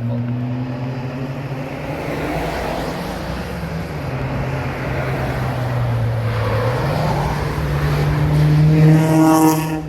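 A car engine under throttle going by on a winding road. Its steady note dips about four seconds in, then climbs and grows loudest near the end as the car comes past, and drops away sharply just before the end.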